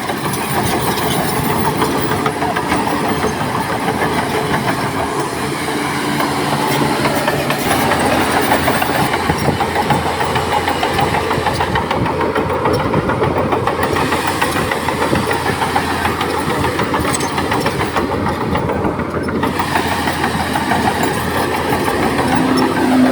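Heavy diesel machinery running steadily and loudly, from a dump truck and bulldozer working rock fill, with a rough hissing noise over the engine drone.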